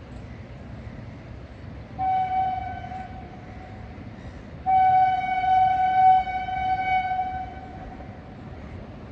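Locomotive air horn sounding at a railroad crossing: a short blast of about a second, then a long blast of about three seconds, one steady pitch, over a low rumble of the passing train.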